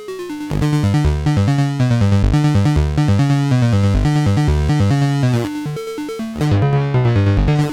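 Analog synthesizers playing a sequenced bass line of short notes in a steady rhythm, with a bright, buzzy tone rich in overtones. The notes thin out briefly about six seconds in, then pick up again.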